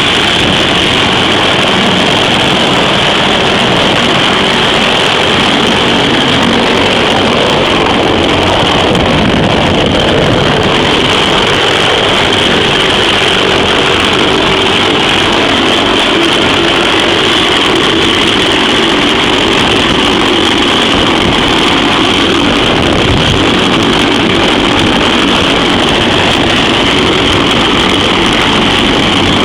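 CH-53E Super Stallion heavy-lift helicopter running, its three turboshaft engines and rotors making a loud, steady noise with a high turbine whine on top.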